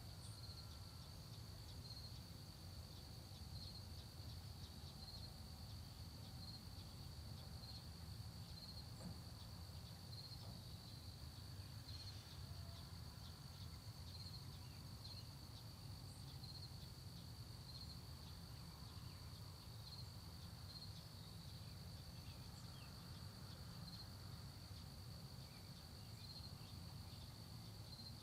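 Faint late-summer insect chorus of crickets: a steady high trill that swells slightly every second or so, over a low steady rumble, with a few faint bird chirps.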